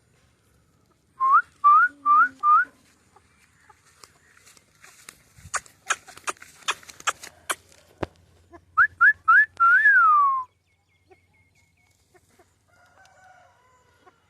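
Four short rising whistles in quick succession, then a run of sharp clicks, then three more rising whistles and a final longer whistle that rises and then falls away.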